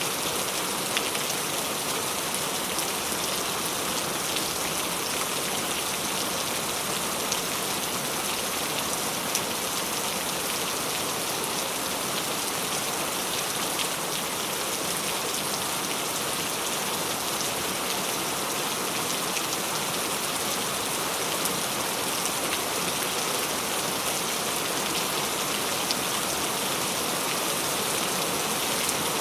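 Steady rain falling, many separate drops pattering and ticking on a hard surface.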